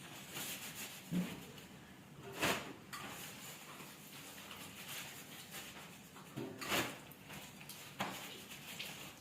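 A comb drawn through thick long hair in a few separate strokes, the clearest about two and a half and seven seconds in.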